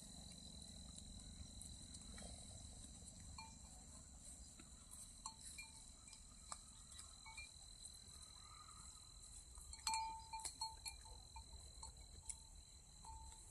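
Faint scattered clicks and short ringing tones, the loudest about ten seconds in, over a steady high-pitched whine and a low rumble.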